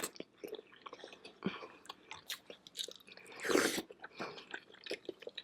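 Close-miked eating sounds of seafood boil being chewed: scattered wet smacks and small clicks, with one louder bite about three and a half seconds in.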